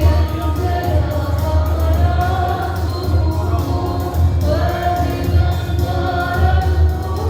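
Music with a choir singing over a steady bass, in a gospel style.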